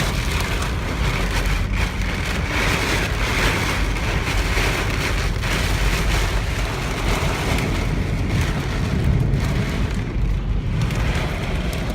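Heavy storm rain and tornado-strength wind pelting a moving car, heard from inside the cabin: a dense steady hiss full of small drop hits over a low rumble.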